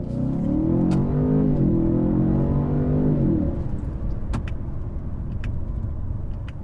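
2017 Ford Fusion Sport's 2.7-litre twin-turbo V6 accelerating, heard from inside the cabin together with Ford's synthetic engine sound played through the speakers: the engine note climbs, dips once about a second and a half in, climbs again and fades a little past three seconds, leaving steady road noise with a few light clicks.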